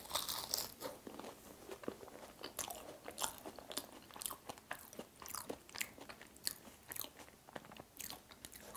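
Biting into and chewing a cheese tart with a flaky, crispy pastry shell: a bite at the start, then many small, irregular crunches and crackles of the pastry as it is chewed.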